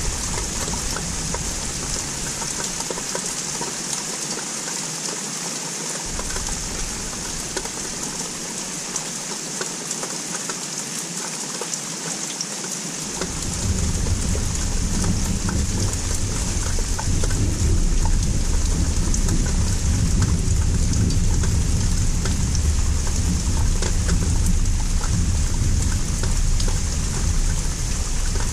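Rain falling steadily, with scattered ticks of drops hitting nearby surfaces. A low rumble of distant thunder fades out in the first couple of seconds, then comes back louder about halfway through and carries on.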